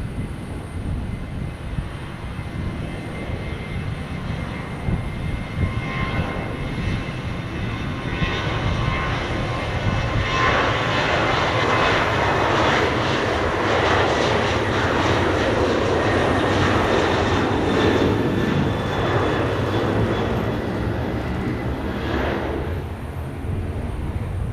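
Jet airliner's engines heard as it passes: a rushing roar with a steady whine in it, building for several seconds, loudest in the middle, then falling away sharply near the end.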